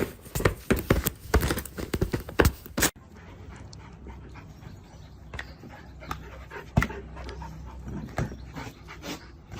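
A dog panting in quick, rapid breaths, then quieter, with scattered clicks and one sharp click about two-thirds of the way through.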